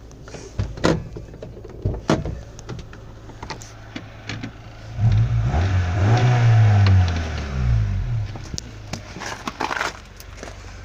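Honda Civic EG4's 1.5-litre four-cylinder engine idling through its original stock exhaust, revved once about five seconds in, the pitch rising and then falling back to idle within about three seconds. A few sharp clicks and knocks are heard near the start and again near the end.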